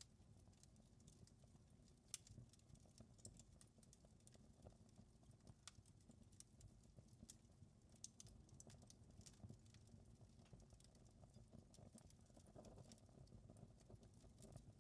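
Faint wood fire crackling, with many irregular small pops over a low, steady rumble.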